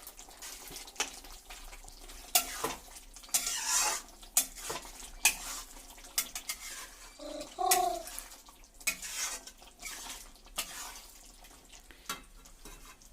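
A spoon stirring chicken curry in a pan, with irregular scrapes and clinks against the pan.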